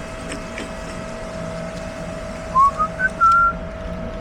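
A person whistles a short phrase of four quick notes, each gliding slightly upward, about two and a half seconds in. A steady hum runs underneath.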